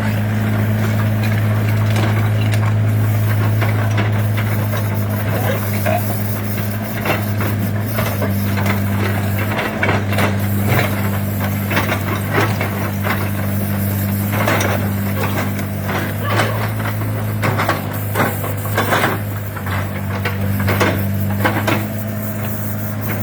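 Hyundai excavator's diesel engine running steadily, with a string of short knocks and clanks through the middle.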